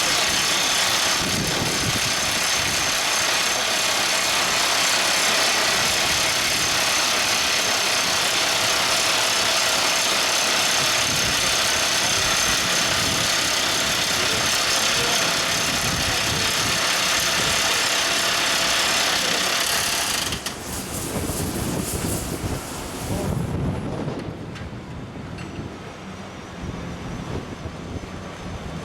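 Top hammer drill rig running: a loud, dense mechanical din that drops sharply about twenty seconds in. A quieter, duller running sound continues after the drop.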